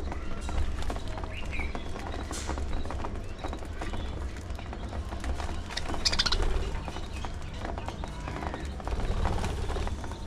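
Budgerigars chirping and chattering in short, scattered calls, with a brighter burst of calls about six seconds in, over a steady low rumble.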